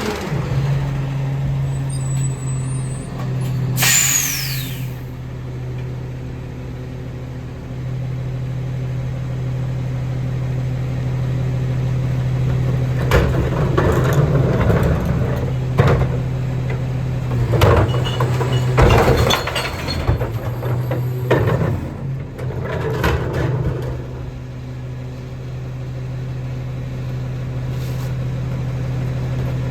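Autocar ACX rear-loader garbage truck's diesel engine running steadily, with a short burst of air hiss about four seconds in from the air brakes, likely the parking brake being set or released. From the middle on there is a series of clanks and knocks as recycling is loaded into the hopper.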